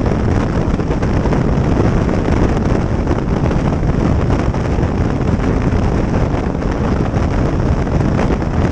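Steady wind rushing over the microphone on a moving motorcycle, with the motorcycle and road noise mixed in.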